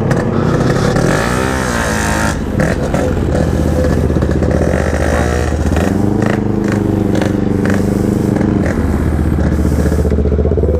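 Yamaha RX-King's ported two-stroke single-cylinder engine under hard acceleration, its revs rising and falling a couple of times, then holding fairly steady from about six seconds in.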